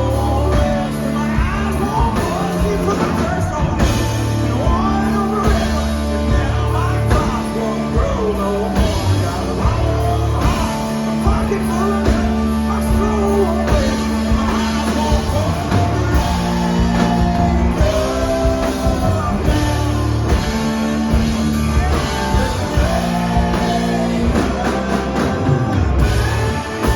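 Rock band playing live, with a singing voice over the band.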